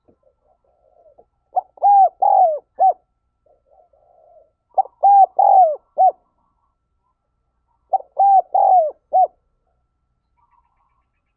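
Spotted dove cooing: three phrases about three seconds apart, each of four notes (a short one, two longer bending ones, a short one), with faint soft coos between them.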